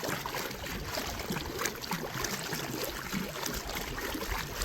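Water splashing and trickling around a small paddled boat as it moves along: an even wash of water noise with faint small splashes.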